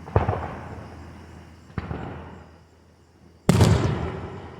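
Aerial fireworks shells bursting: three booms, the first right at the start, a smaller one under two seconds in, and the loudest about three and a half seconds in, each trailing off in a rumbling echo that fades.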